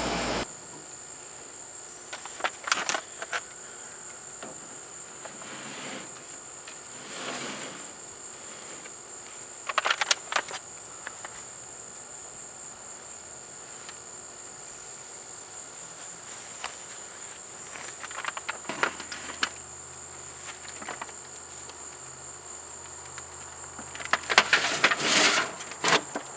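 Insects trilling in a steady, unbroken high-pitched drone, with occasional short knocks and clatters, the busiest cluster near the end.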